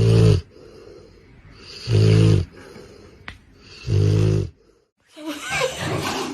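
A dog snoring, three deep, loud snores about two seconds apart. After about five seconds the snoring stops and other, busier sounds take over.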